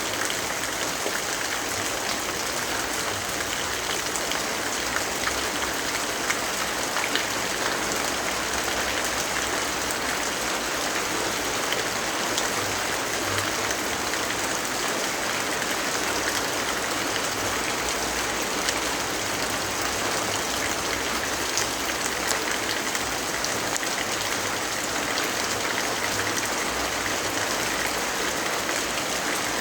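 Steady rainfall: a dense, even hiss that does not change, with a few faint ticks of single drops scattered through it.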